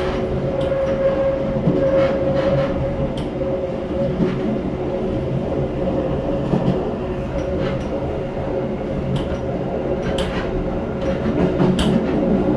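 Train running along the track, heard from on board: a steady mechanical hum with scattered clicks and knocks from the wheels on the rails.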